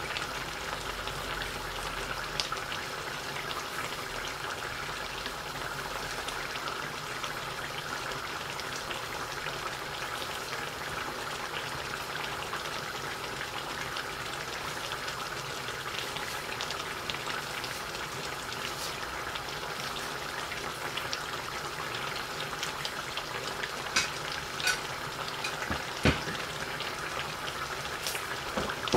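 Duck karahi frying in oil and tomato in a karahi wok over a gas flame: a steady crackling sizzle and bubble, with a few sharper pops near the end.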